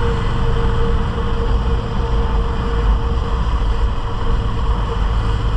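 Motorcycle on the move at a steady speed: the engine runs evenly under a constant rush of riding noise, with a steady hum throughout.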